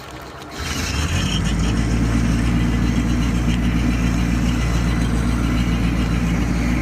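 Diesel generator engine starting about half a second in, then settling into a steady run.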